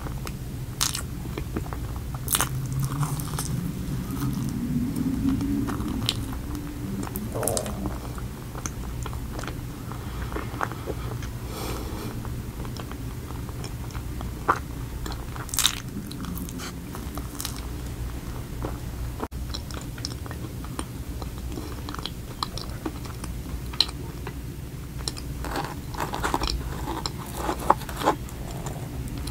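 Close-miked chewing and biting of an iced donut, with wet mouth sounds and scattered sharp clicks and crisp crunches. A steady low hum lies underneath.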